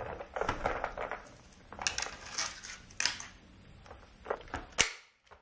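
Hard plastic toy parts clicking and knocking as they are handled, in an irregular run with one sharp snap near the end.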